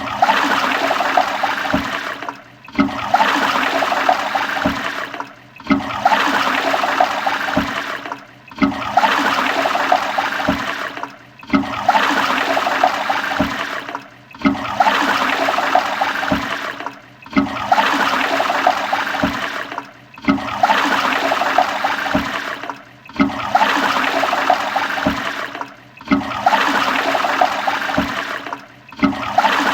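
Toilet flushing: a short rush of water that starts sharply and tails off, repeated about every three seconds, with a brief gap between flushes.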